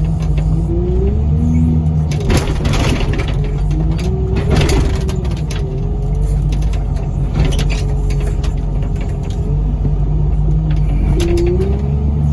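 Loader's diesel engine working under load, its hydraulics whining up and down in pitch as the forks push on the truck. A few loud crunches of the truck's metal body bending under the forks come about two, four and a half and seven and a half seconds in.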